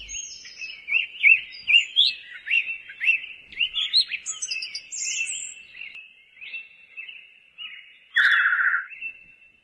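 Songbirds singing: a run of quick, sweeping chirps, with a louder rattling trill about eight seconds in.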